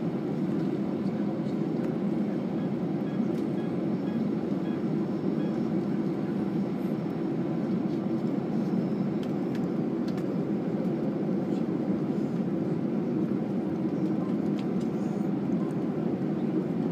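Steady low rumble heard from inside a moving vehicle, unchanging throughout.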